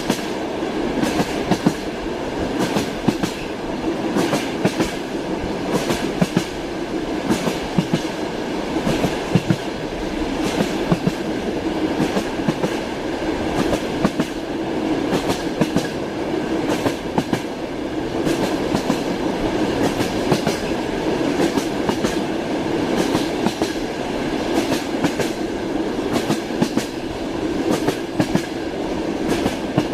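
Train wheels clacking over rail joints, with repeated sharp clacks over a continuous rolling rumble of the moving train.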